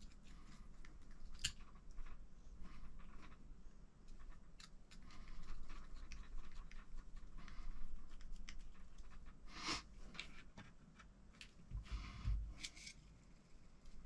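Small parts and tools being handled on a workbench: scattered light clicks and brief scrapes and rustles, with one sharper knock about ten seconds in and a dull low thump a couple of seconds later.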